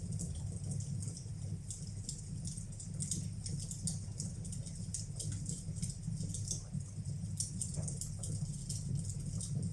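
Fire burning in a fireplace: many small irregular crackles and pops over a steady low rumble.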